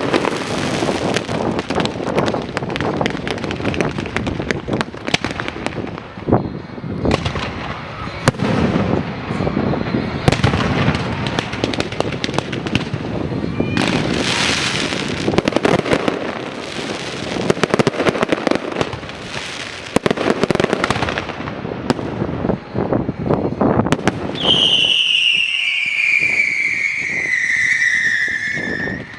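Fireworks going off in a rapid barrage of bangs and crackling. Near the end a long high whistle falls steadily in pitch.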